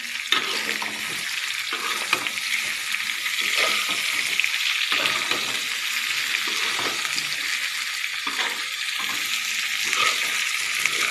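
Mackerel tuna pieces and chilies sizzling in hot oil in a metal wok, stirred with a metal spatula that scrapes and knocks against the pan every second or so.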